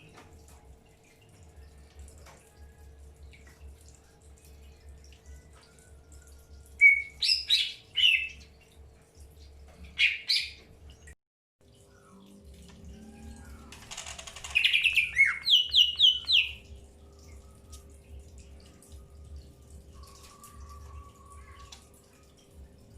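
Green leafbirds (cucak hijau) calling in three short bursts of high chirps, the last and longest running about two seconds. There are quiet gaps between the bursts.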